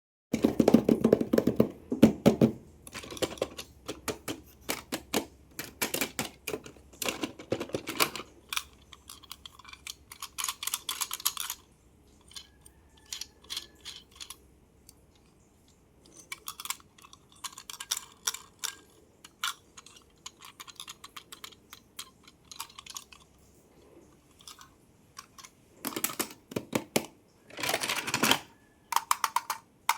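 Hands handling toy packaging and toy cars: rapid tapping, clicking and crinkling in bursts, densest at the start and again near the end, with sparser taps in between.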